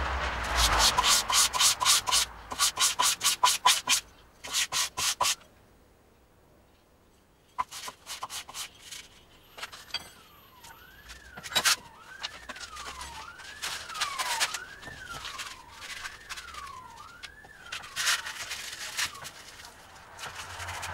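Hand-sanding a forged steel knife blade with quick back-and-forth strokes for about five seconds. The sanding stops, then scattered light scrapes and taps follow. For most of the second half a siren wails in the background, its pitch rising and falling about once a second.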